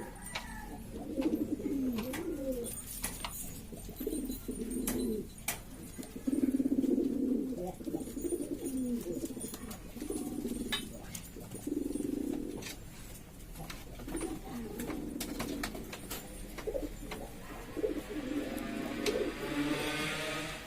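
Domestic pigeons cooing over and over, several low rolling coos in turn, with scattered sharp clicks and knocks among them.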